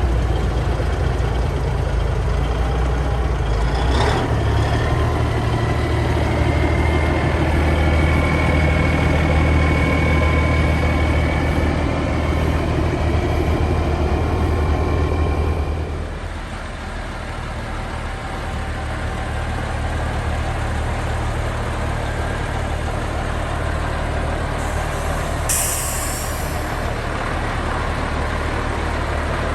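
Heavy diesel truck engine running loudly with a faint whine, dropping off about two-thirds of the way through, and a short air brake hiss near the end.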